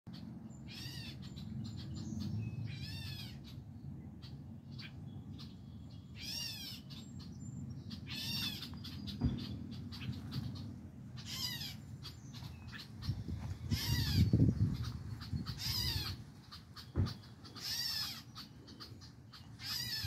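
A bird calling over and over: about nine short, harsh calls spaced two to three seconds apart. Under them runs a low rumble on the microphone, loudest about fourteen seconds in.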